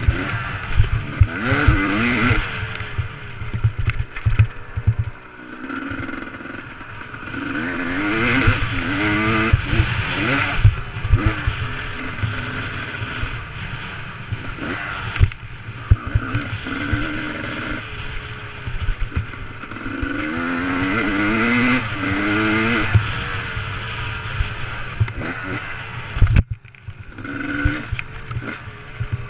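Motocross bike engine revving up and dropping back again and again as it is ridden, over a constant low rumble with many sharp knocks.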